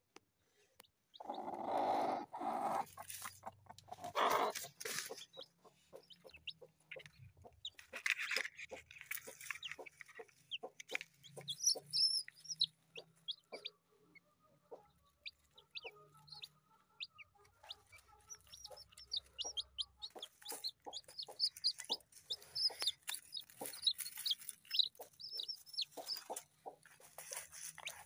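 Chickens clucking, with many short clicks and sharp high chirps throughout, and a few louder calls in the first nine seconds or so.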